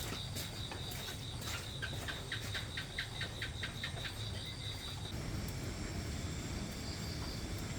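Outdoor ambience: a high, evenly pulsing insect trill that stops about five seconds in, and a run of quick chirps about four a second in the middle, over a steady low rumble.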